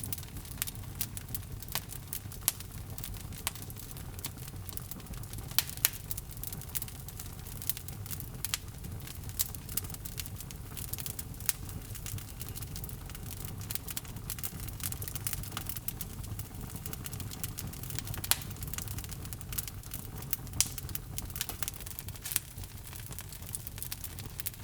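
Log fire burning in a fireplace: a steady low rumble of flames under constant irregular crackling and snapping of the logs, with a few louder pops.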